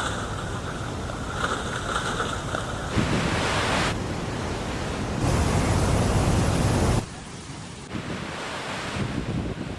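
Rushing floodwater and wind noise, a string of short clips that cut abruptly from one to the next every second or two.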